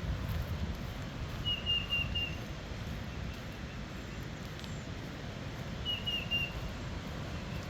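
A bird singing twice, each phrase a quick run of three or four high whistled notes, over a steady low rumble.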